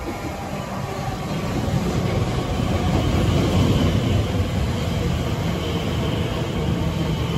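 Elizabeth line Class 345 electric train running into the platform. The rumble of its wheels on the rails grows louder for the first three seconds or so as it draws level, then holds steady as the carriages pass close by, with a faint high whine above the rumble.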